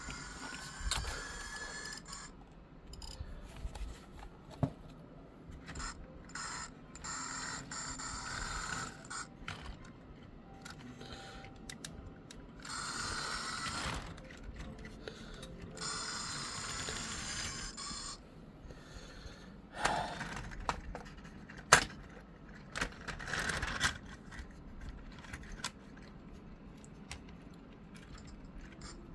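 Model train running on the layout track: a small electric locomotive motor whines and wheels clatter in stretches that start and stop, with a few sharp clicks, the loudest about 22 seconds in.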